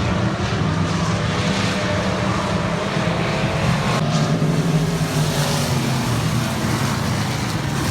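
IMCA stock cars' V8 engines running at racing speed, a loud, steady engine sound from several cars at once.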